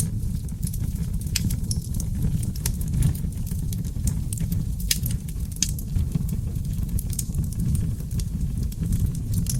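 Seasoned oak logs burning in a fireplace: a steady low roar of flames under frequent sharp crackles and pops, the loudest pop about five seconds in.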